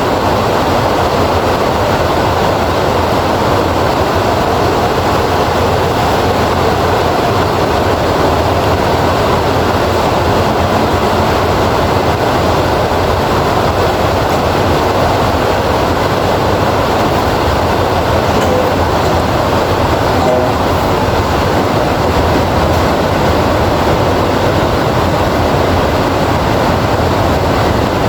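Heavy rain falling steadily: an even, unbroken rushing noise that does not rise or fall.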